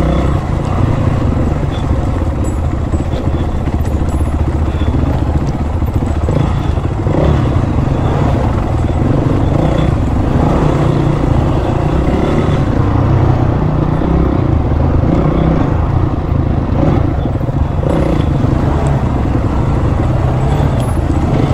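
Dirt bike engine running continuously at low trail speed, its pitch and loudness rising and falling with the throttle.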